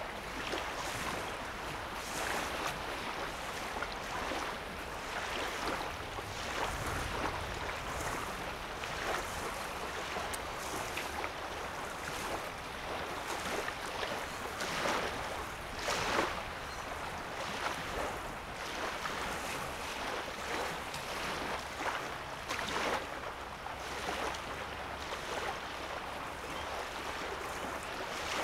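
Small waves lapping on a sandy lake shore: a steady watery wash with soft splashes every second or two.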